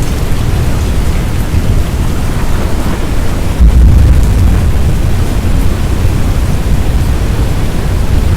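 Loud thunderstorm noise: a continuous low rumble with a hiss of rain over it, surging louder about three and a half seconds in.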